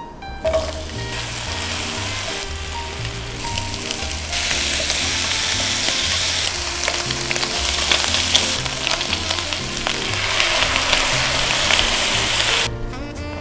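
Onion, shiitake mushrooms and bacon sizzling as they fry in butter and olive oil in a frying pan, stirred with chopsticks; the sizzle grows louder about four seconds in and stops shortly before the end. Light background music with a bass line plays beneath.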